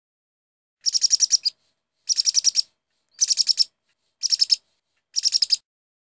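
A bird chirping: five short, rapid trills of high chirps, each about half a second long and spaced about a second apart.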